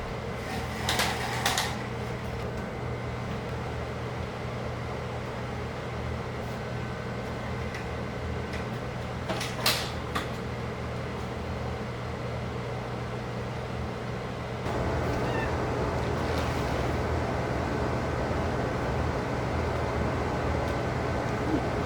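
Kitchen sounds while cats are being fed: a cat meows briefly about a second in, and a couple of sharp clatters come near the middle. A steady household hum runs underneath, and a louder steady noise joins it about fifteen seconds in.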